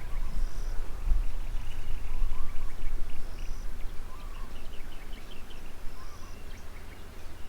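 Several birds chirping and calling, with short repeated high calls among them, over a steady low rumble.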